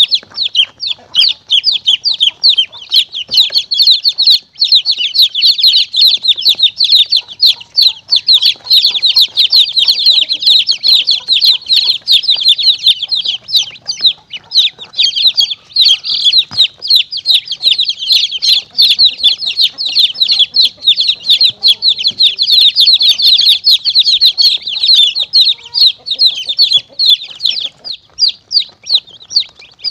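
Many chicks peeping at once in a dense stream of short, high, falling peeps, thinning a little near the end. This is a lure-call recording of chicks, played to draw monitor lizards and mongooses.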